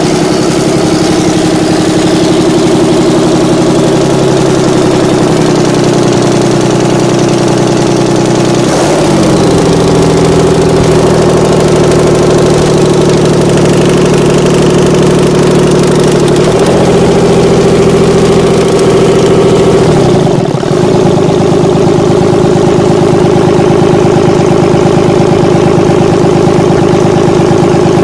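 A six-cylinder, 24-valve engine running steadily at about idle on a test. Its note wavers briefly a few times as the speed shifts slightly.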